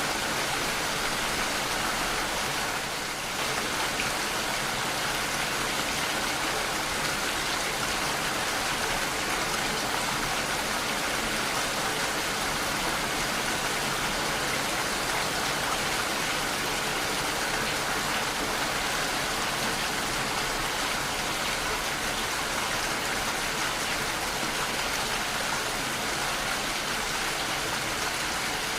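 Steady heavy rain falling, an even dense hiss of drops with no thunder.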